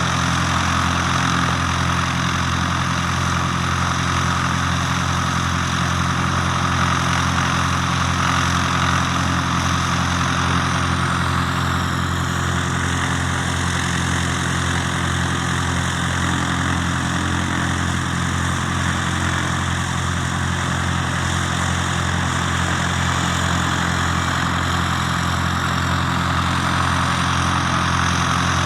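Cessna 152's four-cylinder Lycoming O-235 engine and propeller running steadily at low power, an even drone with no change in speed.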